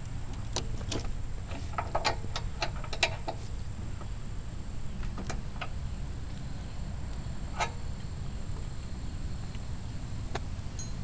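Scattered clicks and metal clinks of tie-down straps and their buckles being unfastened, with a quick run of them about two seconds in and single clicks later, over a steady low rumble.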